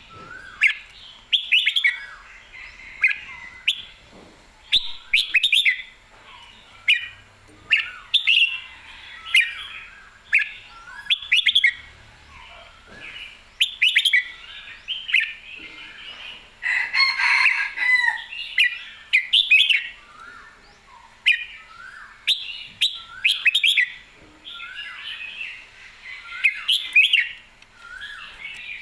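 Red-whiskered bulbul singing loud, short warbled phrases in quick succession, about one or two a second, in the lively full song of a bird in fighting form.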